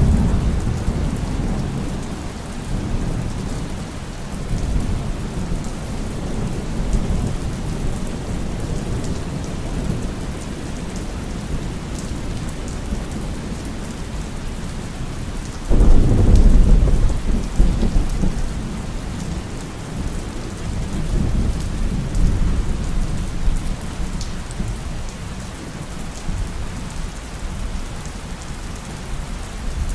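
Steady rain falling with rolling thunder: a rumble fading away at the start, then a sudden louder thunderclap about halfway through that rumbles and dies away over several seconds.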